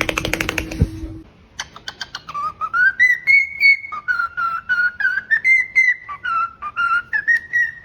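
Pet parrot whistling a wavering line of notes that rise and fall, broken by quick clicks. It begins after a rapid run of clicks over a low hum in the first second.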